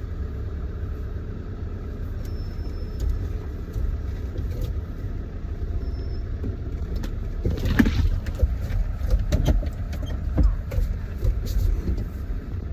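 Steady low rumble of a vehicle's engine and road noise heard from inside the cabin while it drives. About seven seconds in come a few knocks and clicks, loudest around eight seconds.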